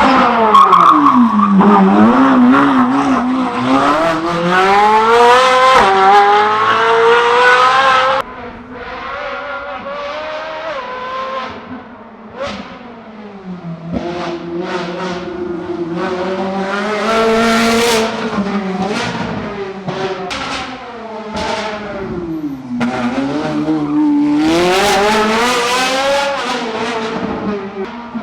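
Sports car engine driven hard on a speed-test course, its pitch climbing through the revs, falling back when it slows for corners, and climbing again. The loudness drops suddenly about eight seconds in.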